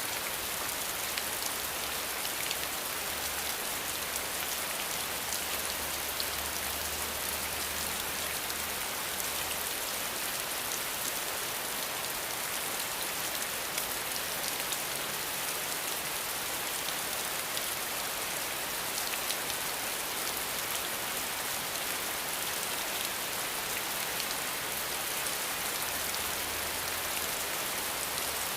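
Steady rainfall: an even hiss of rain with fine, scattered drop ticks, no breaks or changes.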